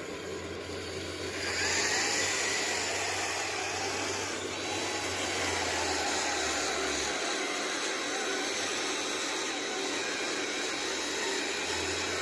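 Heavy earthmoving machine running under steady load, its engine and machinery noise swelling about a second and a half in, with a faint thin whine joining a few seconds later.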